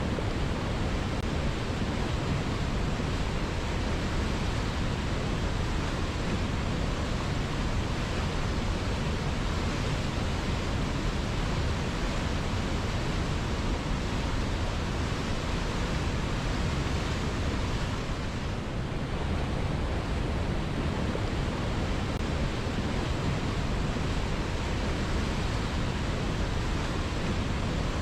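River water flowing, a steady rushing hiss with a deep low rumble and no change in character, dipping slightly for a moment about two-thirds of the way through.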